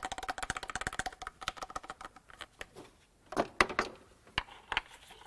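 Workshop handling sounds: a rapid run of clicks for about two seconds, then several separate sharp clacks.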